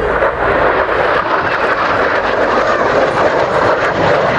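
de Havilland Sea Vixen jet fighter flying past, its twin Rolls-Royce Avon turbojets making a loud, steady rushing jet noise.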